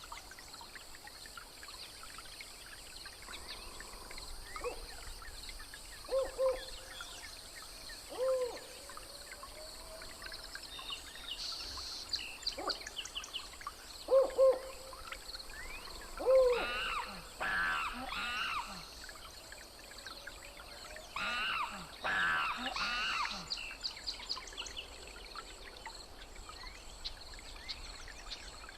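Jungle ambience: a steady high insect buzz throughout, with short low hooting calls repeated several times and, past the middle, two louder bursts of wavering animal calls.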